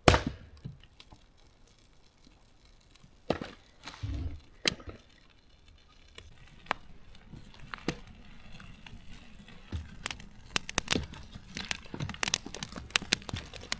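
One loud sharp knock of wood, then scattered knocks and clicks of firewood being split and handled, coming thicker near the end.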